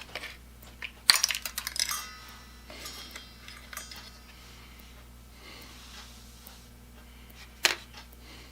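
A quick clatter of hard metallic clicks and clinks about a second in, ringing briefly afterwards, then a single sharp click near the end, over a steady low electrical hum.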